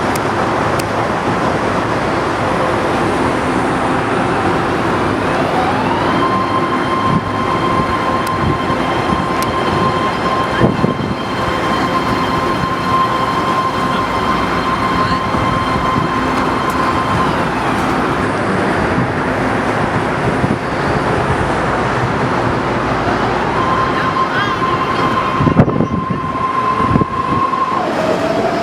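BART train running with a continuous rumble and rail noise, and a high whine that glides up to a held pitch, stays there for about ten seconds, falls away, then rises again near the end. A couple of sharp knocks stand out.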